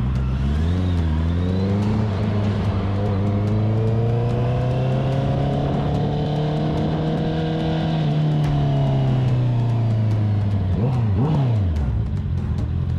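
A vehicle engine running under load, its pitch climbing slowly for several seconds and then falling away, followed near the end by a couple of quick blips of the throttle.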